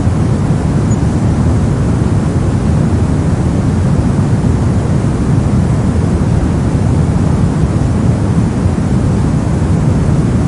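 Steady soft noise for sleep and study: an even, deep hiss weighted toward the low end, with no change or interruption.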